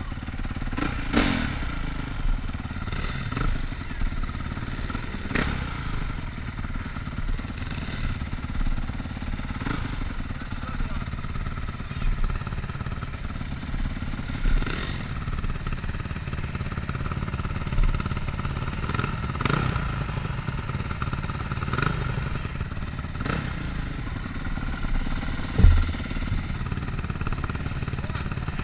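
Motocross motorcycle engine running, with scattered knocks and one sharp, loud thump about 26 seconds in.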